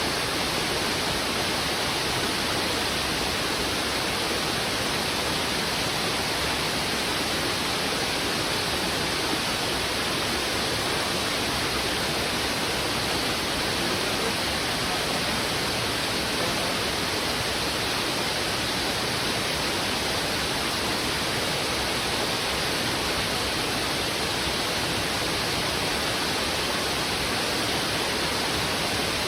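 Heavy river water rushing over rocks: a steady, unbroken rush of fast-flowing water.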